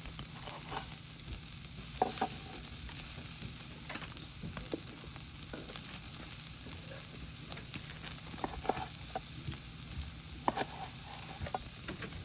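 Beef sizzling on a barbecue grill, a steady hiss broken by scattered sharp clicks and knocks.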